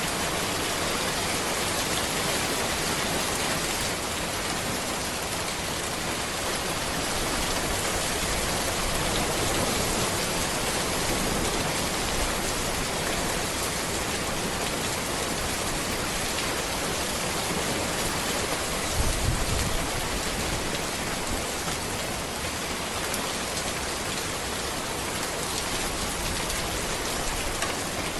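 Steady rain falling on a road, an even hiss of drops. About two-thirds of the way through there is a brief low thump.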